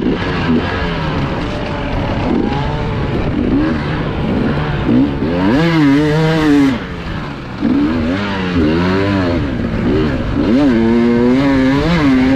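Enduro motorcycle engine revving up and down repeatedly under throttle, with a constant rattle and rumble of the bike over the ground. The revs climb highest about halfway through and again near the end.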